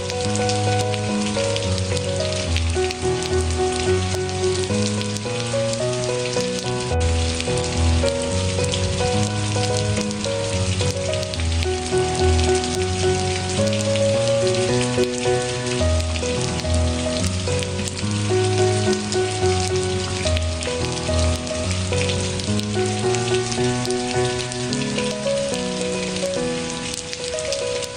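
Steady rain made of many small drop ticks, mixed with slow, soft instrumental music: a melody and low bass notes that change about once a second.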